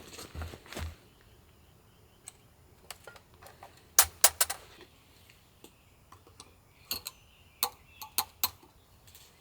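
Sharp clicks and clacks of small hard camping gear or utensils being handled, with a quick run of loud ones about four seconds in and a few more near the end.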